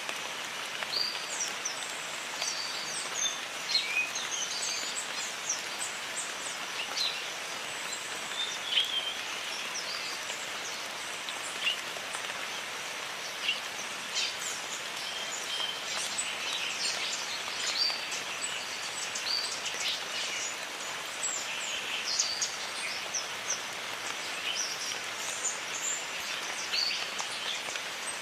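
Steady rain falling on foliage, with many birds calling over it: short chirps and quick sliding notes throughout.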